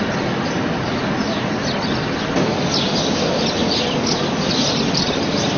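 Small birds chirping rapidly over a steady rushing background noise; the chirping grows busier about halfway through.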